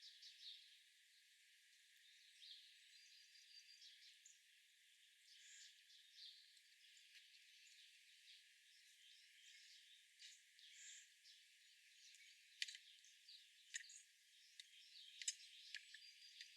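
Faint chirps and short calls of small songbirds over a soft outdoor hiss, with a few sharp ticks in the last few seconds.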